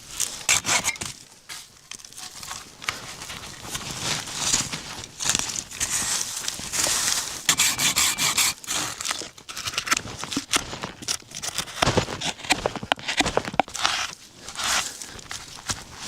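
Hand saw cutting wood: rasping strokes in uneven bursts, with scattered clicks and knocks.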